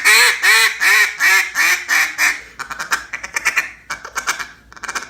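Black River Duck Calls Tyrant single-reed duck call blown as a mallard hen: a string of quacks about four a second for the first two seconds, then two runs of fast, short clucking notes.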